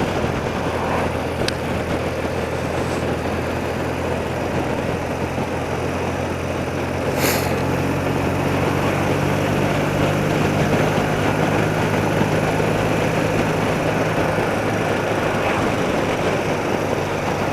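Engine of an old BMW motorcycle running steadily while riding, under a constant rush of wind and road noise.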